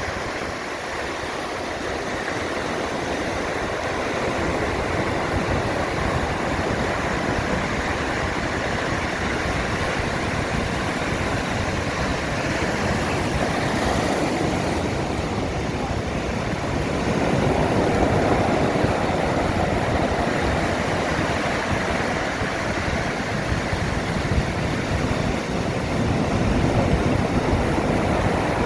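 Storm surf: rough sea waves rushing and breaking continuously, with a wave swelling louder about two-thirds of the way through.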